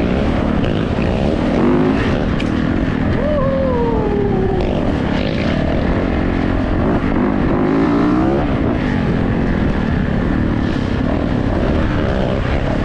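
Yamaha YZ450 dirt bike's four-stroke single-cylinder engine running under way on a trail ride. Its pitch falls a few seconds in and swings back up near the middle as the throttle opens and closes, over a steady loud rush.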